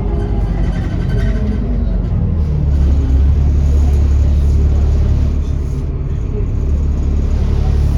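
Dennis Trident double-decker bus heard from inside the saloon, its diesel engine running on the move: the engine note falls over the first couple of seconds, then settles into a steady low drone from about three seconds in.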